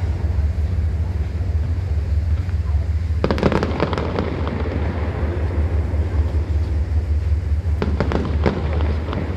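Fireworks going off in two clusters of sharp bangs and crackles, one about three seconds in and one about eight seconds in, over a steady low rumble.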